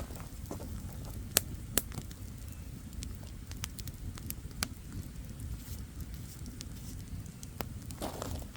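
Wood campfire crackling: scattered sharp pops and snaps, a few louder ones, over a steady low rumble of the flames.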